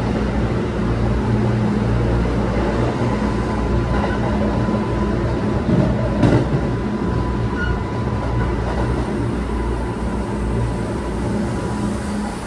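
Kintetsu 7000 series third-rail electric train heard from inside the car while running: a steady rumble of wheels and motors with a faint steady whine, and a single clack about six seconds in.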